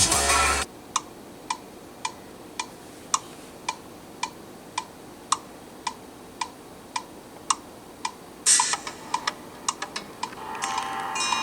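Steady mechanical ticking, just under two ticks a second, each tick a sharp click with a faint pitched ring. About eight and a half seconds in, a short louder rustle breaks the rhythm, followed by a few quicker, irregular clicks before music comes in near the end.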